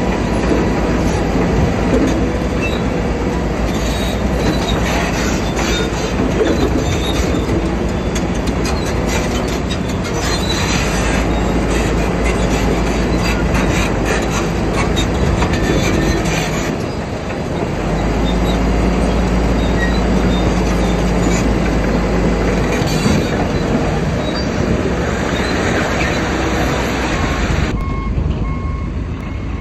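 Bulldozer engine running under load with its steel tracks squealing and clanking as it pushes stone. Near the end the track noise drops and a vehicle's reversing beeper starts sounding in regular beeps.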